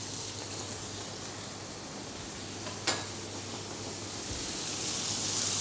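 Bacon-wrapped chicken breast sizzling in hot oil in a frying pan, the hiss growing louder toward the end. A single sharp click comes about three seconds in.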